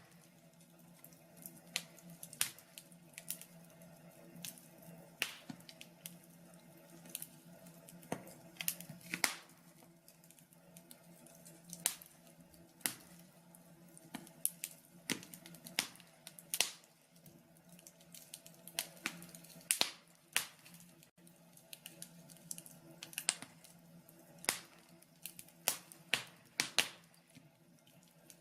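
Wood fire in a log burner crackling, with irregular sharp pops and snaps, some in quick clusters. A faint steady hum runs underneath.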